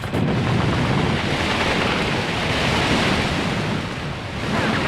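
Sea surf and waves: a steady rushing wash of water.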